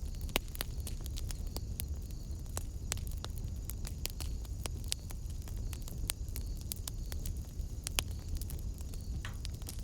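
Wood fire burning in a fireplace: frequent irregular sharp crackles and pops over a low steady rumble of the flames, with a louder pop just after the start and another about eight seconds in.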